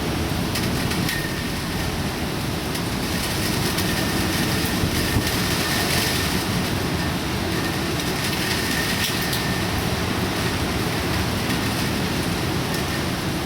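Heavy rain and wind of Typhoon Faxai, a steady, even rushing noise with scattered small clicks and a faint intermittent high tone.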